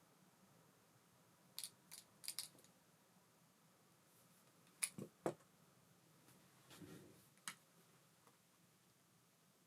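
Near silence broken by a handful of light, sharp clicks and taps: a couple in the first half, three quick loud ones about halfway, then a soft knock and one more click.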